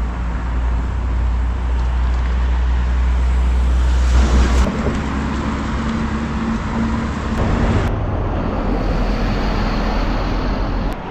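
Road traffic: vehicles passing over a steady low rumble. One peaks loudest about four seconds in, followed by a steady engine hum for a few seconds.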